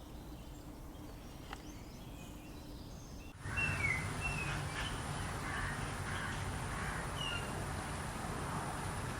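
Rainforest ambience with short, falling bird whistles over a steady high-pitched hum and a low rumble. The soundscape changes abruptly to a louder one about three and a half seconds in.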